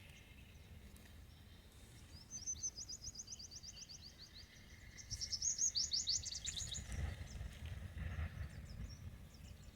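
A bird calling in two rapid trills of short high notes, each note sliding downward, about eight notes a second, the second trill louder, over a low outdoor rumble.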